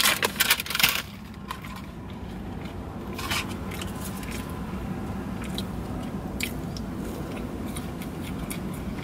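Biting into a crispy fried chicken nugget: a burst of loud crunches in the first second, then quieter chewing with a few scattered light crackles. A steady low hum runs underneath.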